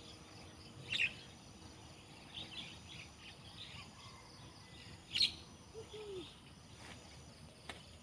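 Birds calling: scattered short chirps, with two sharper, louder calls about a second in and about five seconds in.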